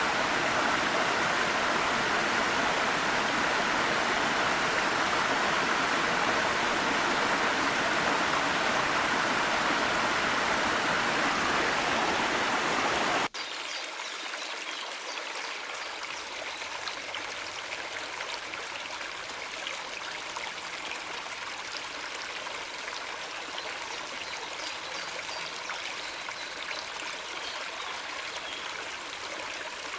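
Small mountain stream and waterfall, water rushing steadily. About 13 seconds in the sound cuts abruptly to a quieter, lighter babble of flowing water.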